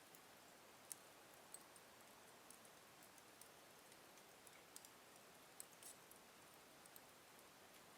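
Wood fire in a fireplace crackling faintly: scattered small sharp pops and snaps over a soft hiss, the sharpest about a second in and a few close together near six seconds.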